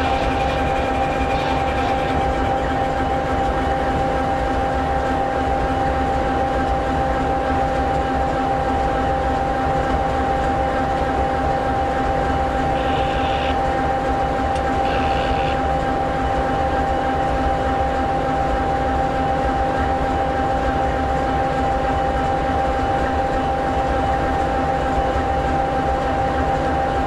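EMD 16-710G3B V16 two-stroke turbocharged diesel of an SD60E locomotive idling steadily: a constant low rumble with a steady high tone over it. Two brief faint high sounds come about halfway through.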